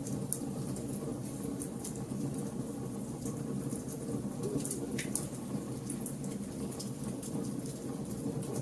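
Campfire of burning logs: a steady low rumble of flames with scattered sharp crackles and pops, one stronger pop about five seconds in.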